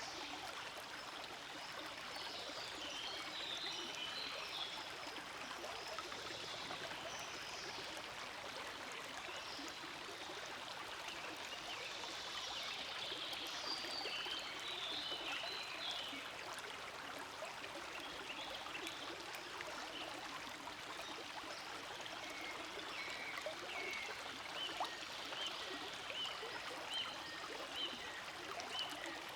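Forest stream flowing steadily: a continuous babble and trickle of running water.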